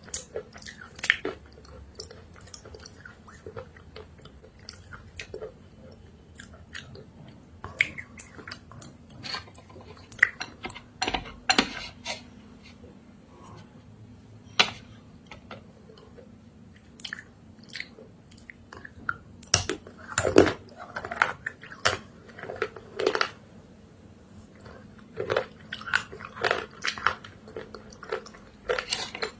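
Close-up eating of dried clay paste: irregular crunchy bites and chewing, with clusters of sharp crackles around two-thirds of the way through.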